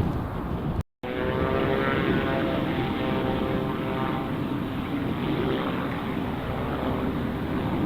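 Propeller aircraft engine running, a steady buzzing drone over heavy wind noise on the microphone. The sound cuts out completely for a moment about a second in, then comes back.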